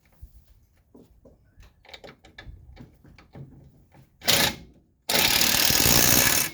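Small clicks and knocks of a socket and bolt being handled, then a power impact wrench runs in a short burst and then for about a second and a half, driving a bolt down with a 12 mm socket.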